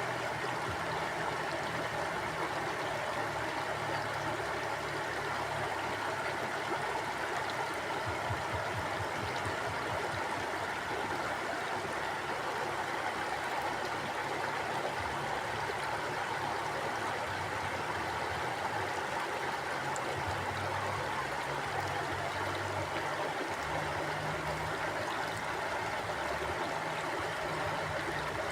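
Mountain stream flowing steadily: a continuous rush of water, with a low, uneven rumble underneath.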